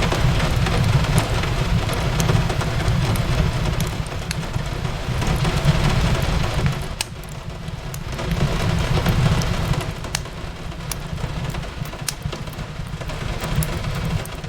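Rain falling steadily on a window, swelling and easing, mixed with a wood fire crackling in sharp, scattered pops over a low rumble.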